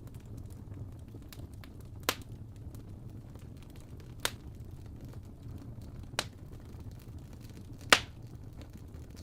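Wood fire crackling: four sharp pops about two seconds apart, the last the loudest, among faint small ticks over a low steady rumble.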